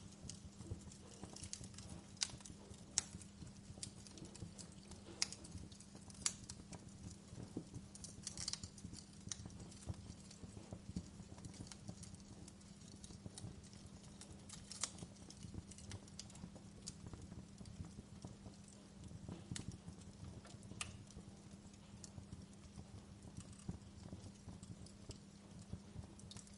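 Wood fire in a fireplace crackling, with irregular sharp pops and snaps over a soft hiss, and a low steady hum underneath.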